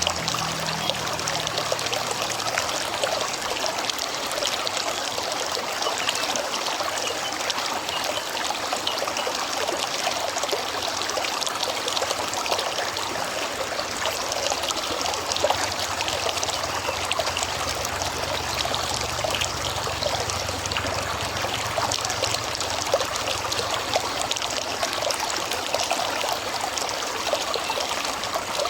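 Shallow river flowing over stones: a steady babbling and trickling of water.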